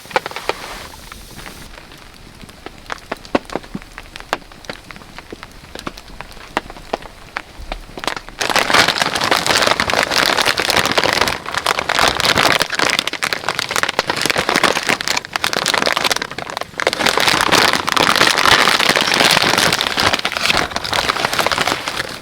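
Rain falling on a tarp: scattered single drops at first, then dense, loud pattering from about eight seconds in.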